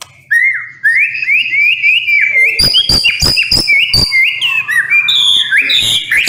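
White-rumped shama singing: a loud, rapid run of repeated upslurred whistled notes, about three a second, with a quick series of sharp clicking notes in the middle.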